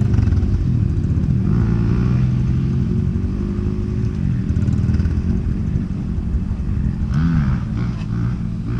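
Off-road motorcycle engine running at a steady low speed, with a short rev up and back down about seven seconds in.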